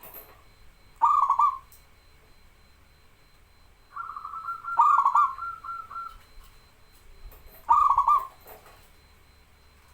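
Zebra dove (perkutut) cooing: three short phrases of rolling notes about three seconds apart, with a fast run of quick repeated notes around the second phrase.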